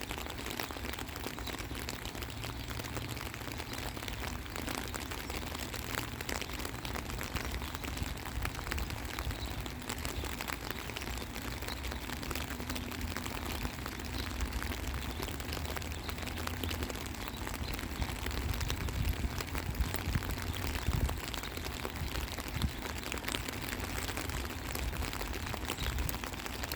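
Steady rain falling, many small drops pattering, with a low rumble underneath.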